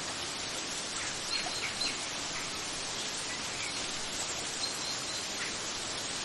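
Steady rushing of water, with a few short, high bird chirps about a second in and again near the end.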